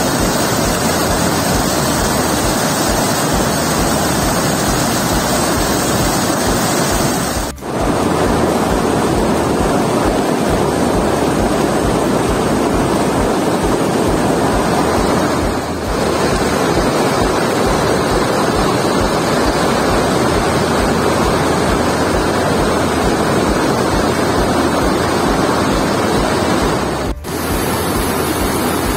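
Waterfall in spate: a loud, steady rush of falling water, broken by three brief drops in level.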